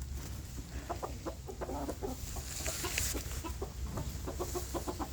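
Domestic chickens, hens and roosters, clucking in a flock while they feed on a birdseed treat, with many short calls overlapping.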